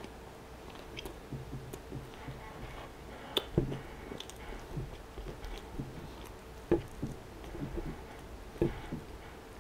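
Close-miked chewing of a mouthful of food, with soft wet mouth sounds. A metal fork clicks and scrapes against a wooden board a few times, loudest about three and a half seconds in and again near seven and nine seconds.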